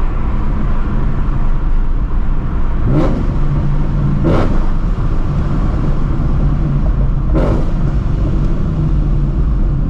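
ProCharger-supercharged Shelby GT350's 5.2-litre flat-plane-crank V8 driving along with a steady engine drone. Three short, sharp bursts cut through at about 3, 4.5 and 7.5 seconds.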